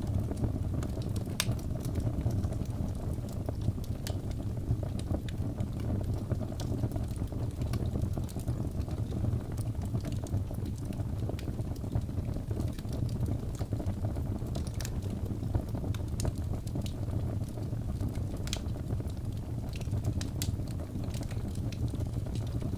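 Wood logs burning in a fireplace: a steady low rumble of the fire with scattered, irregular sharp crackles and pops from the logs.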